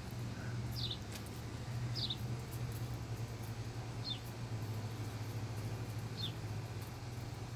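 A bird repeating a short, high chirp that falls in pitch, about every two seconds. A steady low hum runs underneath.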